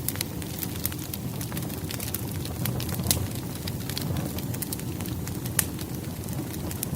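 Firewood logs burning in a fireplace: a steady low rush of flame with frequent sharp crackles and pops, two of them louder, about three seconds in and near the end.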